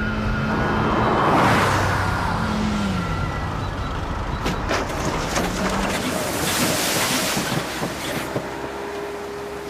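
Police car engine running and revving as the car is driven, with a gliding engine note and swells of rushing noise about a second in and again around six to eight seconds.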